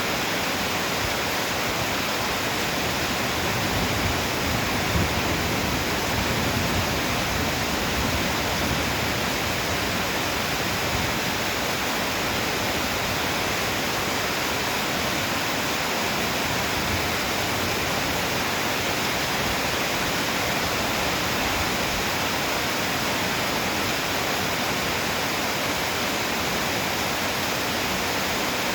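Heavy downpour: a steady, dense hiss of torrential rain, with a few brief low swells about four to seven seconds in.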